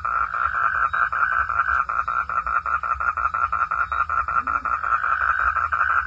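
Frog calling at night in a rapid, steady pulsed trill of about eight pulses a second.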